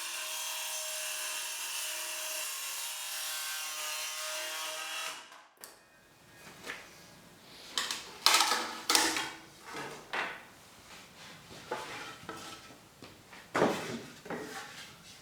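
A power tool runs steadily, then cuts off about five seconds in. It is followed by irregular scraping strokes on wood, some louder than others.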